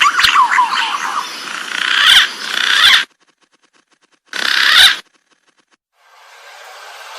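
Green pigeon (punai) calls, a dense run of sliding, fluting whistles that cuts off abruptly about three seconds in. A brief half-second burst of the same calls follows after a gap, and then a faint hiss rises near the end. This is recorded birdsong of the kind played to lure wild green pigeons.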